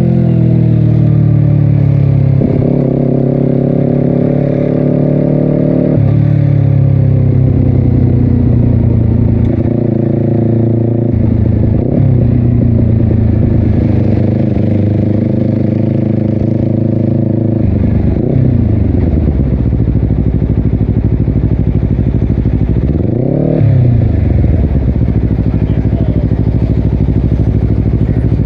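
Honda CBR250RR parallel-twin with a Yoshimura exhaust under way. Its pitch climbs and jumps in steps through several gear changes, slides down as the revs drop about 18 seconds in, blips up and back down once a few seconds later, then runs at a low steady pitch.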